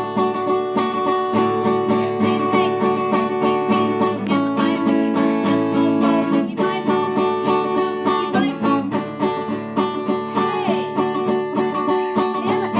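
Music played on strummed plucked-string instruments with a steady beat. The chord changes about four seconds in and again about six seconds in.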